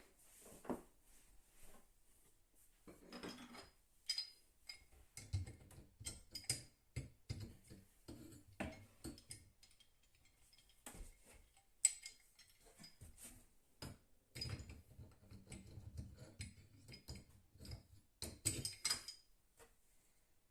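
Faint, scattered metallic clinks and knocks of a monkey wrench on the shut-off valve under a sink, mixed with low thumps of handling, one sharper click about twelve seconds in.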